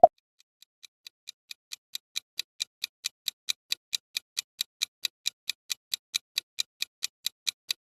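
Clock-like ticking of a countdown timer sound effect: quick, even ticks, a little over four a second, fading in over the first couple of seconds and then steady.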